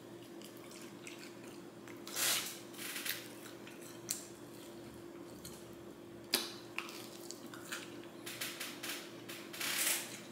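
A person biting into and chewing a sauced, bone-in fried chicken wing: faint mouth and chewing sounds in scattered short bursts, with a sharper click about six seconds in and a denser run near the end.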